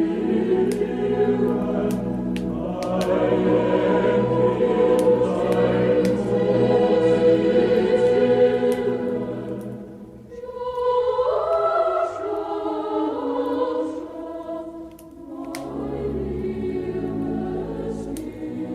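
Choir singing a slow Christmas carol in long held notes, pausing briefly between phrases about ten seconds in. Sharp scattered clicks of a crackling wood fire sound over it.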